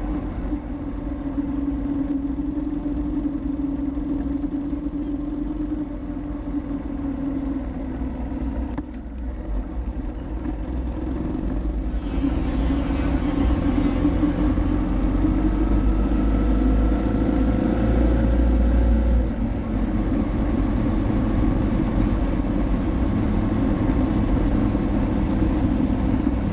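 Motorcycle running on the road: a steady engine tone over a low rumble, dipping briefly about 9 seconds in and changing a little about 12 seconds in.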